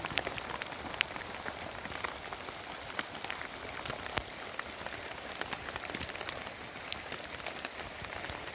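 Heavy rain falling steadily, with many sharp individual drops striking a surface close by at irregular moments.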